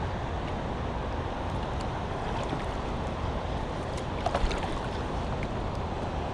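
Steady rush of moving river water around a kayak, with a few light clicks about four seconds in.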